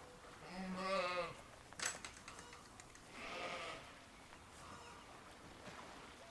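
Sheep bleating: one wavering, quavering bleat about half a second in, then a fainter second bleat about three seconds in. There is a sharp click between them.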